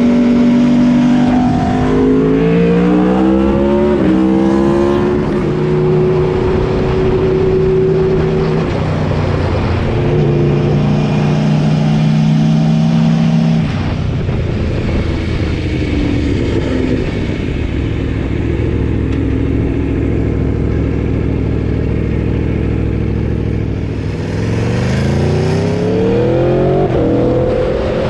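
Aprilia RSV4's V4 engine through a RaceFit aftermarket exhaust under hard riding: revs climb through quick upshifts in the first few seconds, hold steady, drop sharply as the throttle closes about halfway through, then rise again with another shift near the end.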